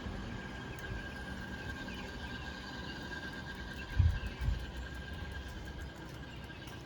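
Street noise heard from a moving bicycle, with a thin steady high-pitched squeal throughout and two low thumps about four seconds in.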